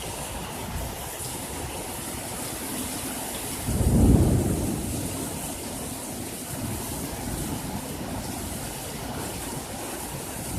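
Steady rain, with one loud thunderclap about four seconds in that rumbles away over a couple of seconds.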